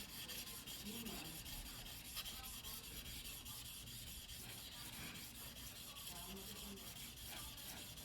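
Choyo White #2 steel yanagiba blade being rubbed back and forth on a whetstone in quick, even strokes: hand sharpening of the knife.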